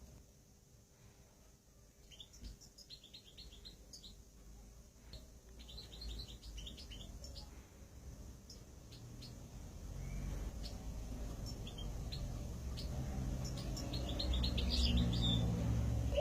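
Small ornamental cage birds chirping in quick, short repeated notes, in clusters that grow busier toward the end. A low rumble rises underneath in the second half.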